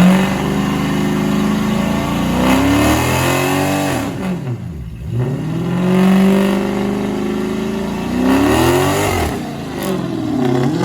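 Vehicle engine revved hard and held high, let drop briefly about four and a half seconds in, then revved and held again, with another dip near the end.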